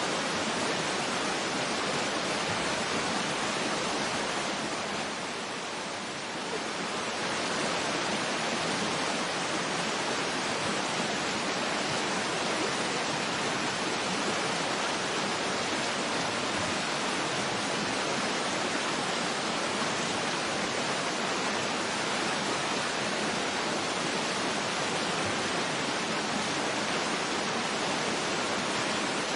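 Waterfall's rushing water, a steady even hiss with no breaks, easing off slightly for a moment about six seconds in.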